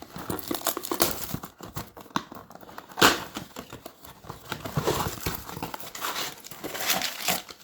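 Plastic wrap and cardboard of trading-card blaster boxes being torn open and crinkled by hand: an irregular run of crackles and rips, with one sharper, louder tear about three seconds in.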